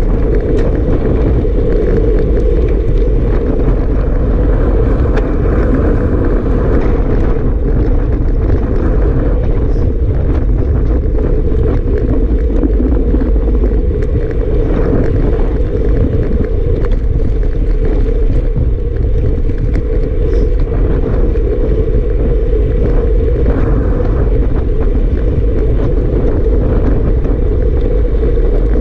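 Strong wind buffeting the microphone: a loud, steady low rumble with frequent crackles.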